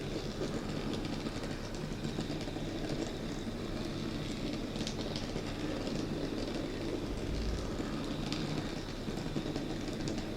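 Bachmann On30 gas-mechanical model locomotive and dump cars running steadily on track: an even whirr of the motor and gears with the rolling of the small wheels, and a few light clicks.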